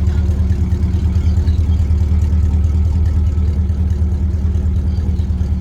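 A car engine idling steadily close by, a constant low, even rumble.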